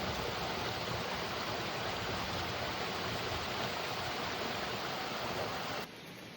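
Steady rushing noise, which drops suddenly to a quieter hiss about six seconds in.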